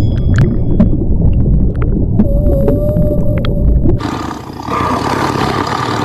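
A large animal's deep, rumbling roar, turning harsher and higher-pitched about four seconds in.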